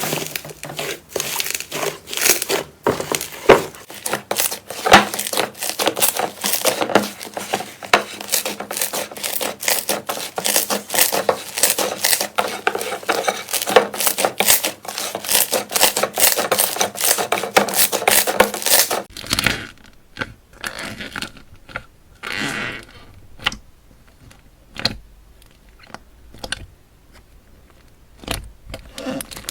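Slime being squeezed and pressed by hand, with dense crackling and sharp popping. About two-thirds of the way through, the sound changes to sparser, quieter pops and squishes.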